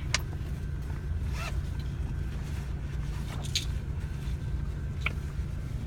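A steady low rumble, with four short scraping rustles spread through it as something is handled, much like a zipper being pulled.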